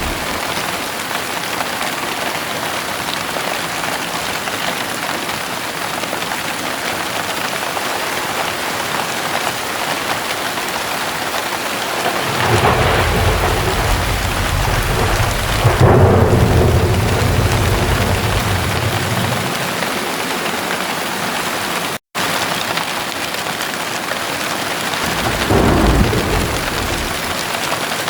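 Steady heavy rain with thunder rumbling twice: a long roll that builds about halfway through, peaks and slowly dies away, and a shorter rumble near the end. The sound cuts out for a split second just after the long roll.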